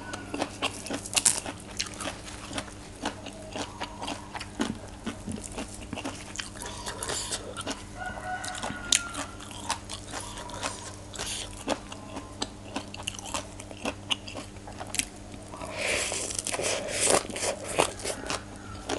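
Close-miked chewing and biting of a mouthful of som tam (green papaya salad with raw shrimp) wrapped in fresh lettuce, with wet crunching throughout that grows louder near the end.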